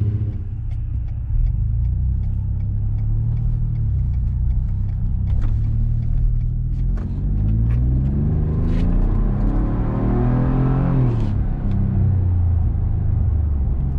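2018 Ford F-150's 3.5 EcoBoost twin-turbo V6 idling through a Flowmaster Delta 50 cat-back exhaust with an 18-inch glass pack. It is revved once about halfway through, rising over a few seconds and dropping back to idle.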